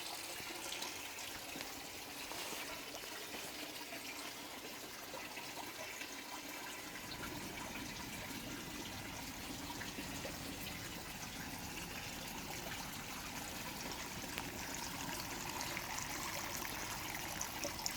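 Water trickling and splashing steadily as the pump in a flood and drain growing system pushes it out through the tubes into the containers.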